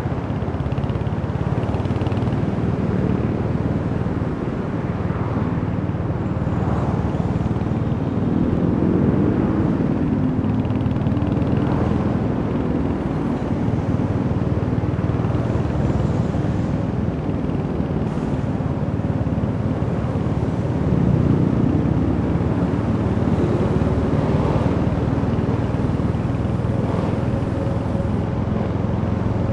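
Royal Enfield Hunter 350's single-cylinder 349 cc engine running on the move, its pitch rising and falling with the throttle.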